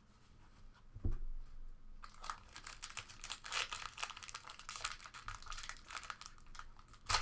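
Plastic trading-card pack wrapper crinkling and being torn open, a dense rapid crackle from about two seconds in, with a louder burst near the end. A single dull thump about a second in, like something set down on the table.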